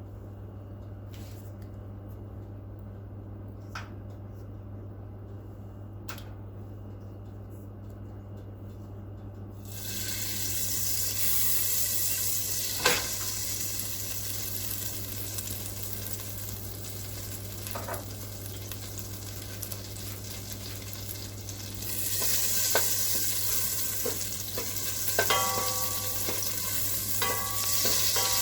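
Butter and oil sizzling in a hot pan. The sizzle starts about a third of the way in and grows louder near the end, with a few knocks and scrapes of a spoon against the pan. A steady low hum runs underneath.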